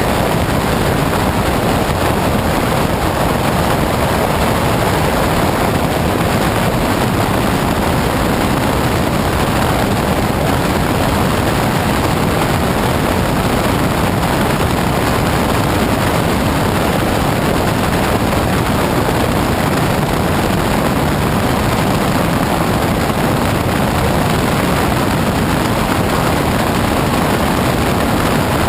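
Steady, loud rush of wind and engine noise from a single-engine propeller light aircraft, picked up by a camera mounted outside the airframe under the wing, with the wind on the microphone drowning out any distinct engine note.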